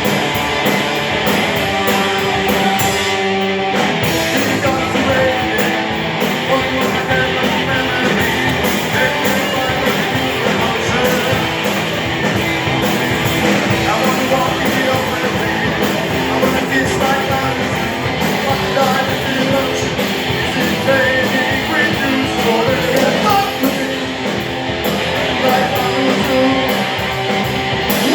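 Rock band playing live: guitar over a steady drum beat.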